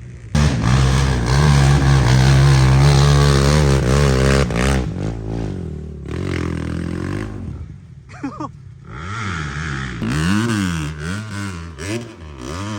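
Off-road vehicle engine revving hard, held at a steady high pitch for several seconds, then blipped up and down repeatedly as the throttle is worked.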